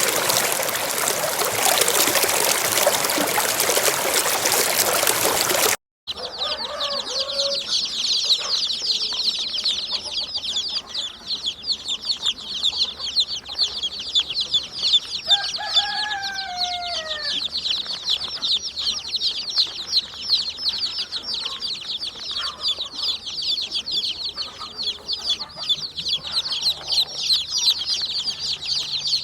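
A loud, even rushing noise for about six seconds cuts off abruptly. It gives way to a dense, continuous high-pitched chirping with a few short chicken clucks mixed in near the middle.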